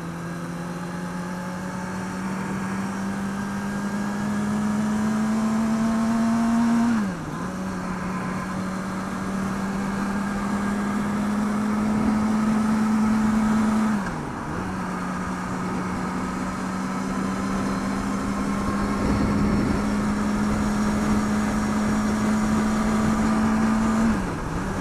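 Kawasaki ZX-6R 636 inline-four engine running at highway speed, its pitch slowly rising, with a short sharp dip in revs about seven seconds in, again about fourteen seconds in, and near the end. Steady wind and road noise runs underneath.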